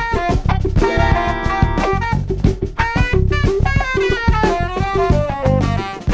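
A small funk band playing live: drum kit and bass keep a steady beat under a horn line of saxophone and trumpet. Around the middle, the melody steps down in a falling run.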